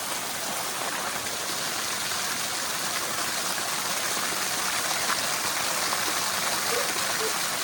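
Small waterfall pouring steadily into a pool: a constant, even rush of falling water.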